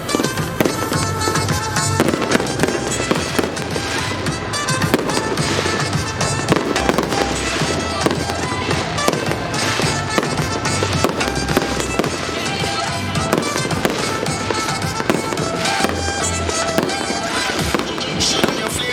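Fireworks going off in rapid, overlapping bangs and crackles throughout, over music with a steady low bass.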